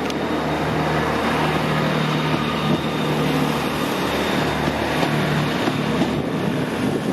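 A train running through the station: a loud, steady rumble with a low engine hum underneath.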